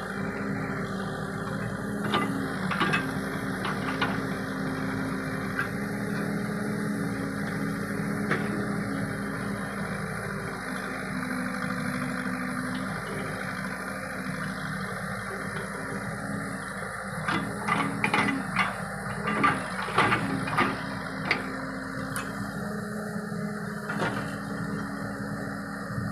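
Backhoe loader's diesel engine running steadily, with a few sharp knocks and clanks in the first few seconds and a dense cluster of them about two thirds of the way through.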